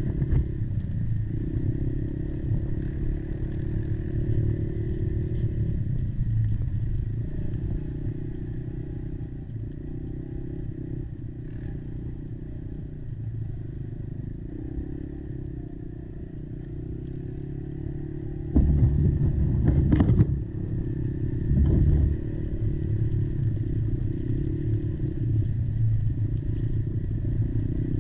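Kymco Maxxer 300 quad's engine running under way, its pitch rising and falling with the throttle. About two-thirds of the way in comes a burst of loud low thumping and clattering, then a shorter second one.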